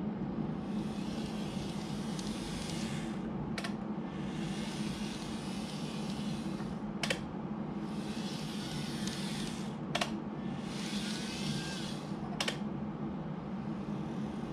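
N-gauge model train running on track, its flywheel-equipped motor unit giving a steady hum with wheel rumble, and a sharp click about every three seconds as the wheels cross rail joints.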